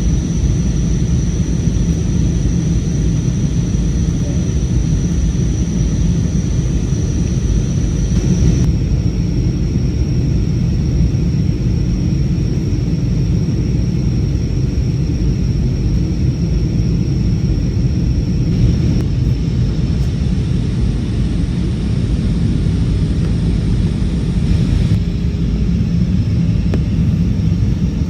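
Steady cabin noise of an airliner in flight: an even, loud rumble of engines and airflow with a thin high whine above it.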